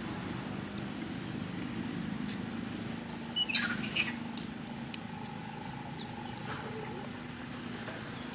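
A monkey giving a short high squeak with a brief scuffle about three and a half seconds in, over a steady low background hum.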